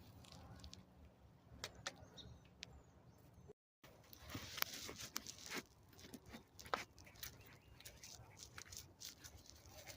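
Faint rustling with scattered crackles and clicks, denser in the second half, broken by a brief dropout to silence about three and a half seconds in.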